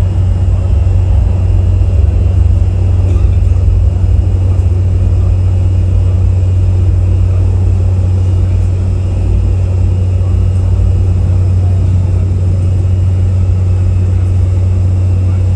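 Steady low rumble of jet aircraft engines, loud and unchanging.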